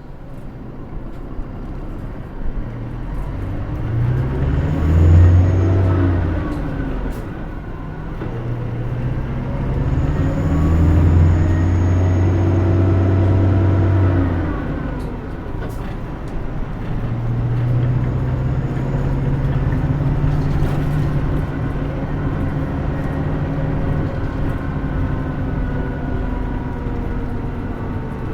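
Diesel engine of a Hino Rainbow II medium-size route bus, heard from inside the cabin as the bus pulls away. The engine note rises in pitch three times and drops back after each climb, as the bus works up through the gears, over steady road and tyre noise.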